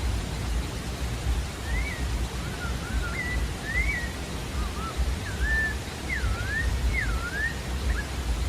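Pale-breasted thrush (sabiá-da-várzea) singing a phrase of short slurred whistles that rise and fall, starting about a second and a half in, over a steady low rumble of background noise.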